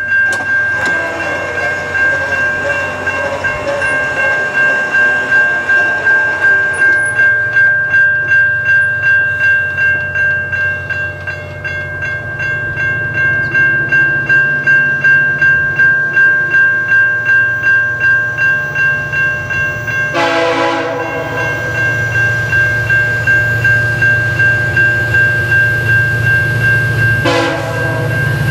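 A bell rings steadily, about two strokes a second, as a VIA Rail F40PH-2 diesel passenger locomotive approaches with a low engine rumble that grows toward the end. Its horn sounds two short blasts, the first about two-thirds of the way in and a shorter one near the end.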